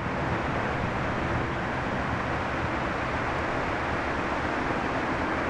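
Locomotive ploughing through deep snow on the track: a steady rushing of snow thrown aside, over a low engine rumble.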